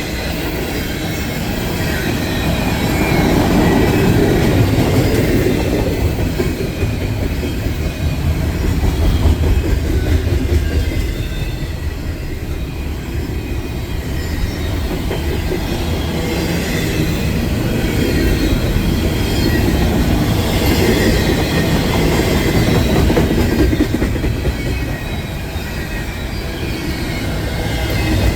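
A train rolling past on the rails: a steady rumble of cars and wheels that swells and eases, with faint wheel squeal coming and going.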